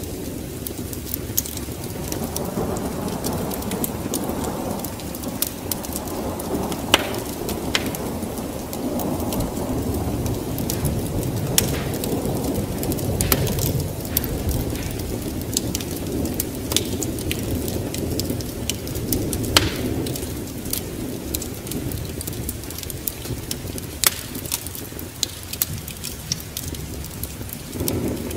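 Wood fire crackling with scattered sharp pops over a steady low rumble of rain and rolling thunder, which swells and eases.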